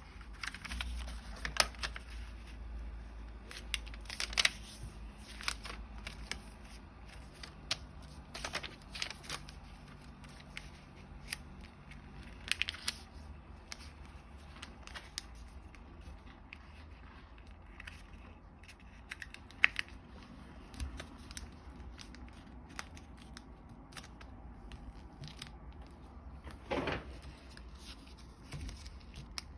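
Origami paper being folded and creased by hand: scattered crisp rustles and sharp snaps of the paper, over a faint low hum.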